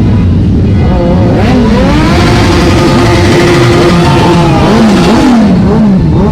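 High-performance engines revving: the pitch climbs, holds steady for a couple of seconds, then rises and falls several times as the throttle is blipped repeatedly.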